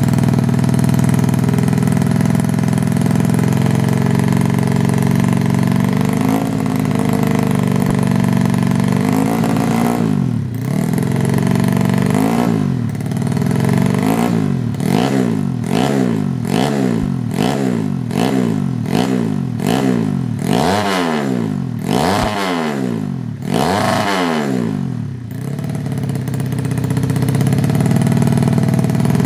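Bored-up 130cc Yamaha Jupiter single-cylinder four-stroke engine, tuned for grasstrack, idling steadily. About ten seconds in it is blipped repeatedly, revving up and dropping back about once a second for some fifteen seconds, then settles back to idle.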